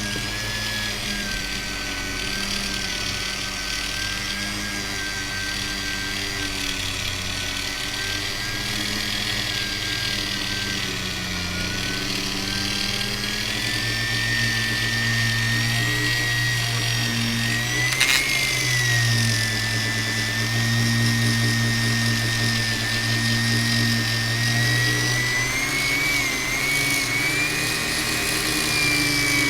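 A small handheld power tool, a drill or rotary tool with a polishing pad, runs continuously as it buffs polishing compound on a plastic case. Its motor whine wavers in pitch as the load changes and rises somewhat in the second half. There is a brief click about 18 seconds in.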